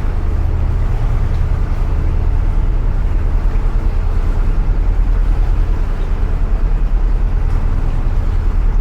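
Narrowboat's inboard engine running steadily at low cruising speed inside a canal tunnel, a loud, even low hum.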